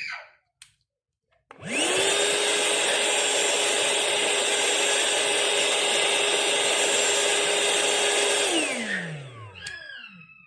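Cordless handheld vacuum cleaner switched on: the motor whine rises quickly to a steady high pitch, runs for about seven seconds, then is switched off and winds down with a falling pitch.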